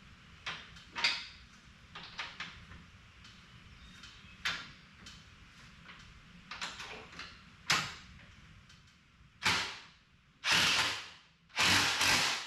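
Knocks and clicks from handling a side-by-side's door and its newly fitted plastic door valance, with a few louder, longer scraping or rubbing sounds near the end.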